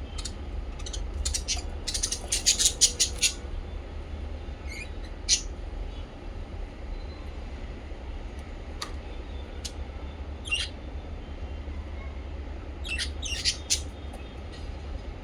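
Small pet parrots chirping: a quick run of sharp, high chirps about two seconds in, then scattered single chirps, over a steady low hum.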